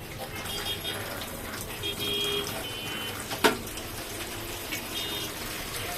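Beef tripe boiling in a pot of turmeric-and-salt water, a steady watery noise, with one sharp click about three and a half seconds in.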